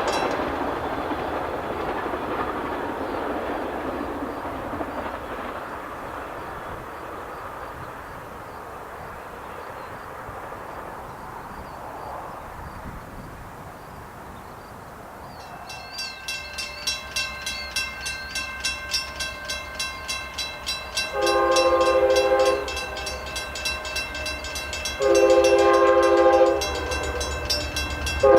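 A passing train's rumble fades away, then a grade crossing bell starts ringing about twice a second. An approaching locomotive sounds its horn in two long blasts, with a third beginning at the very end, signalling for the crossing.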